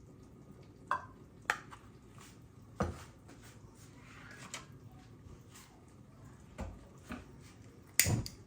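Kitchenware being handled: dishes and utensils clink and knock about seven times at uneven intervals, the loudest knock near the end.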